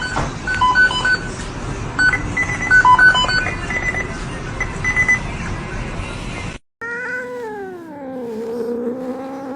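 A series of short high electronic beeps over a busy background, then, after a cut, a domestic cat's long drawn-out yowling meow that slides down in pitch and rises again at the end.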